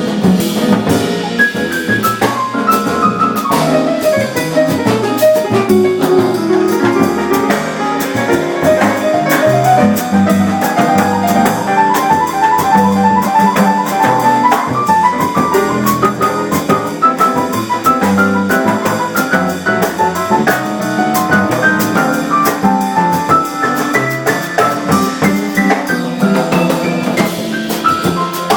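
Live Latin-jazz band playing an instrumental passage arranged as a Cuban changüí: drum kit and hand percussion keeping a steady groove under quick runs of melodic notes, with piano.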